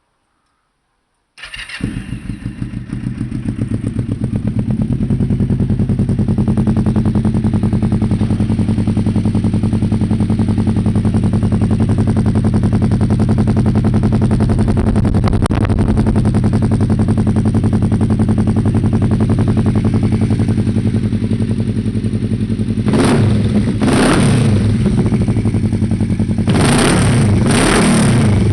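Kawasaki KLE motorcycle engine with an aftermarket race exhaust firing up about a second and a half in, then idling steadily with a loud, even exhaust pulse. Near the end the throttle is blipped four times in two pairs, each rev rising and falling quickly.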